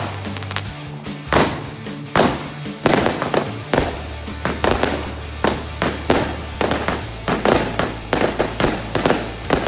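Fireworks going off in quick succession, a sharp bang or crackle about twice a second, over background music with a steady bass.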